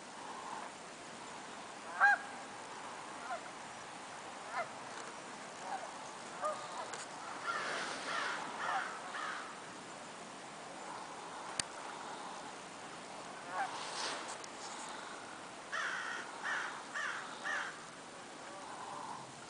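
Birds calling outdoors: short, harsh calls, several coming in quick runs of three or four, over a steady background hiss.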